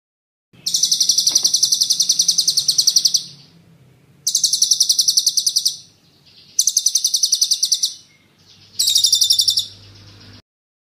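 A songbird singing four high-pitched, rapid rolling trills, each about one to two and a half seconds long, separated by short gaps; the recording cuts off abruptly near the end.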